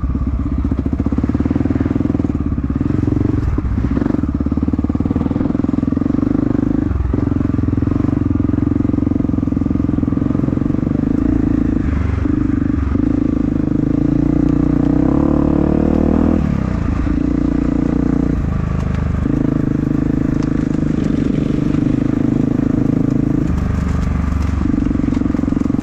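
Dirt bike engine running hard under held throttle, with short lifts off the gas. About fifteen seconds in, the revs climb, then fall away for a couple of seconds before it pulls again.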